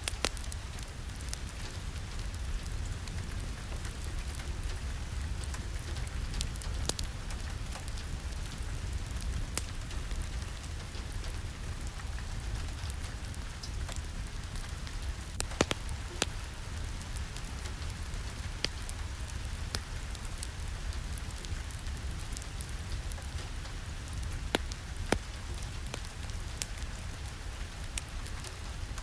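Steady rain falling, a continuous hiss over a low rumble, with many scattered sharp clicks of drops through it.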